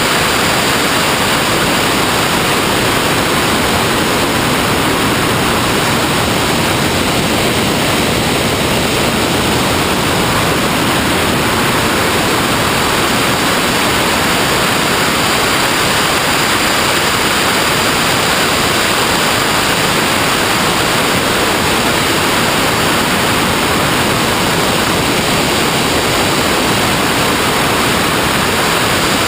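A loud, steady hiss that does not change, with a faint thin high tone running through it.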